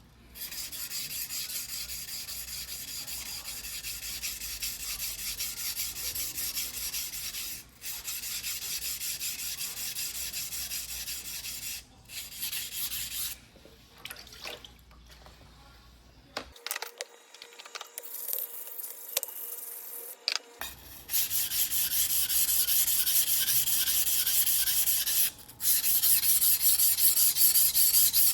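A Shirogami No. 2 carbon-steel yanagiba blade is stroked rapidly back and forth on a wet whetstone, a steady gritty scraping in quick repeated strokes. It pauses briefly a few times, goes quieter for several seconds in the middle, and comes back louder in the last third.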